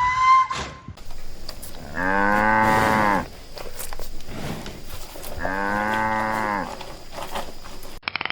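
A cow mooing twice, two low calls about a second long each, a few seconds apart. Before them, in the first second, there is a short higher-pitched animal call.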